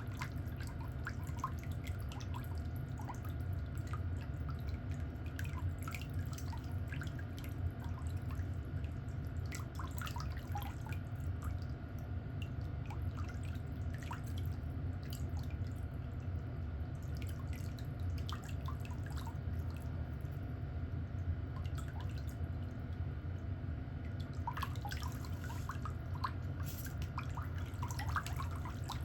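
Small irregular clicks and taps, scattered through, over a steady low hum.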